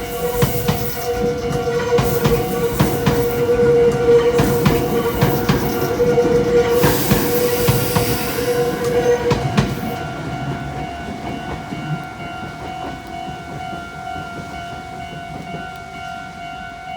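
A Meitetsu electric train passes over the railroad crossing with rapid wheel clicks over the rail joints, fading out about ten seconds in. The crossing's warning bells ring steadily the whole time and keep ringing after the train has gone.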